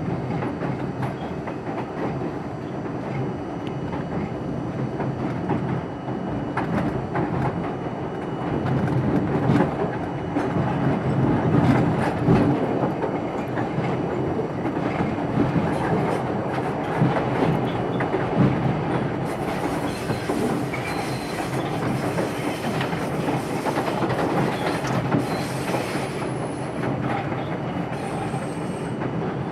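R42 subway train running along the track, with a steady rumble and frequent clicks as the wheels pass over rail joints. A high-pitched wheel squeal comes in during the last third.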